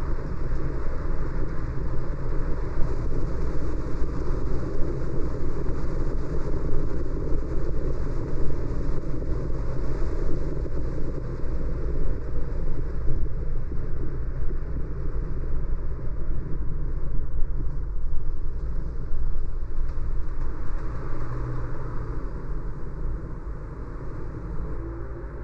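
Steady road and tyre noise of a car being driven, heaviest in the low rumble, dropping slightly near the end.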